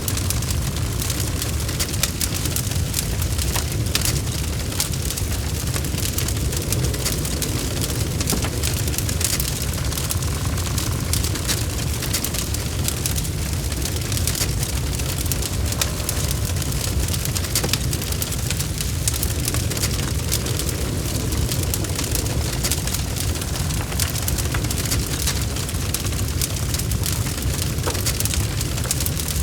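Burning logs crackling in a fireplace: a dense, irregular scatter of small sharp pops over a steady low rumble of the flames.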